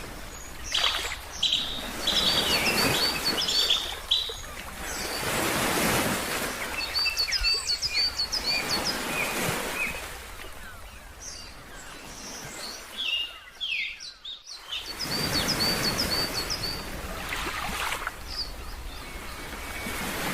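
Ocean surf washing in and out in swells, with a bird repeating quick runs of short, high chirps over it several times.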